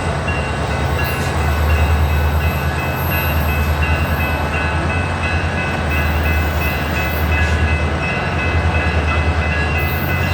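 Diesel train engine rumbling steadily with a low, pulsing throb, with a repeated high ringing tone above it.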